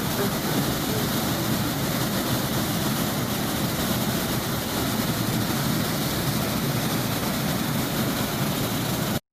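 Waterfall, water rushing in a steady, even noise that cuts off abruptly near the end.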